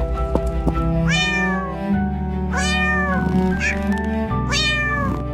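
A kitten meows three times, each meow rising and then falling in pitch, over steady background music.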